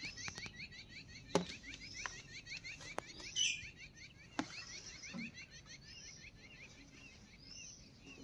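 Small birds chirping: a fast run of short repeated chirps for the first few seconds, then scattered higher chirps. A few sharp clicks stand out among them.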